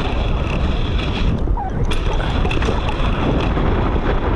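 Wind buffeting a helmet-mounted action-camera microphone: a loud, steady low rumble.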